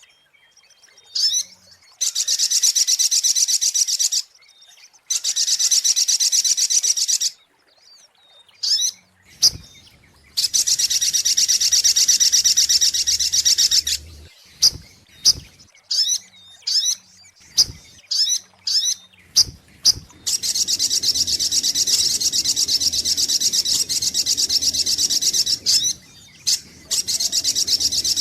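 Little spiderhunter (sogok ontong) song: long runs of rapid, high-pitched repeated notes lasting a few seconds each, broken by pauses with short single chirps.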